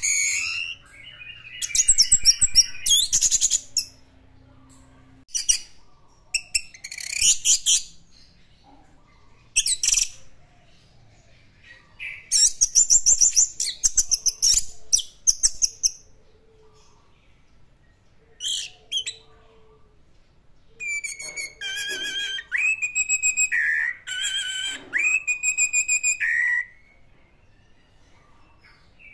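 Orange-headed thrush singing in separate bursts of quick, varied high warbling phrases with short pauses between them; near the end comes a longer phrase of repeated, wavering whistled notes.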